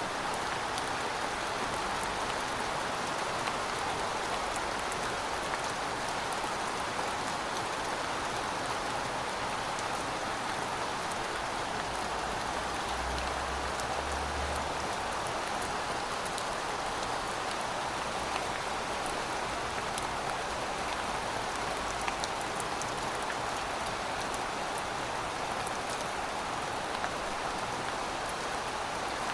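Heavy rain falling steadily: a dense, even hiss with many small drop ticks scattered through it.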